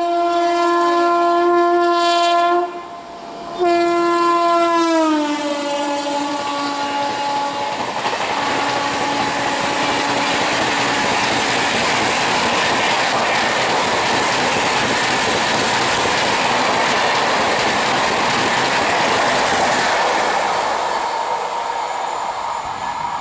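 High-speed Indian Railways passenger train sounding two long horn blasts as it approaches, the second falling in pitch as it passes at speed. A long rush of wheels on rail follows as the coaches run by, fading near the end.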